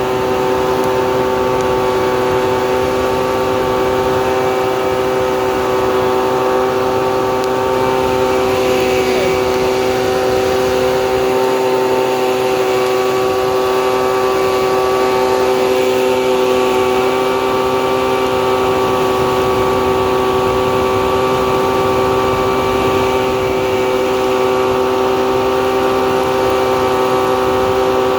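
Leaf blower running at steady high speed, blowing air into the embers of a bonfire.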